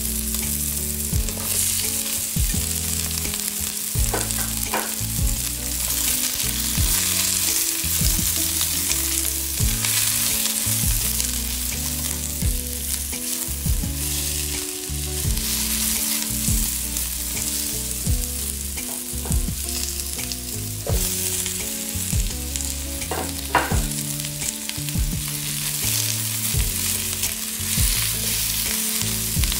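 Onion, garlic, carrot and bell pepper sizzling steadily in a hot stainless steel wok as they are stir-fried, with a silicone spatula tossing them and a couple of sharp taps against the pan.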